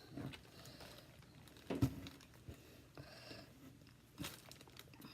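A knife cutting through raw potato on a cutting board: a few sparse knocks and crunches, the loudest a little under two seconds in and another about four seconds in.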